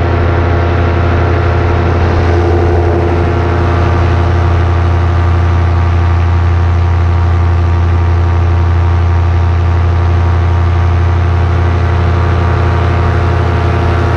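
Paramotor engine and propeller running steadily at a constant throttle, a loud, even drone with no change in pitch.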